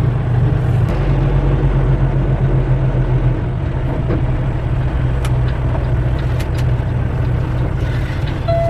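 Semi-truck's diesel engine running with a steady low drone, heard from inside the cab. A single steady beep starts near the end.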